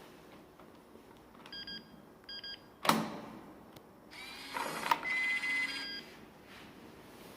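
Gateman digital door lock: two short double beeps, a sharp clunk about three seconds in, then a warbling electronic tone sequence over a whirring noise for about two seconds. The lock only beeps this way and the door does not lock.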